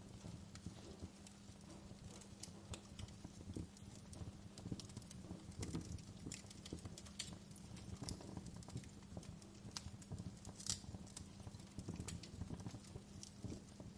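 Wood fire burning in a fireplace, crackling with irregular sharp pops over a low steady hum.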